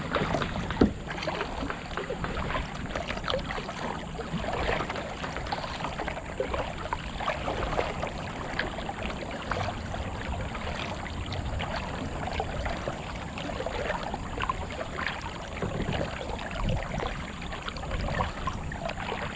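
Kayak paddles dipping and pulling through the water, with splashing and dripping at each stroke and a sharp knock a little under a second in.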